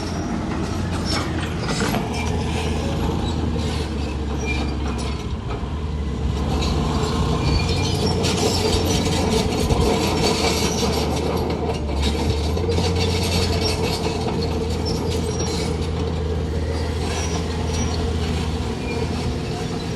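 Crawler bulldozer working: its diesel engine runs steadily under load while the steel tracks clank and squeal with many irregular metallic clicks.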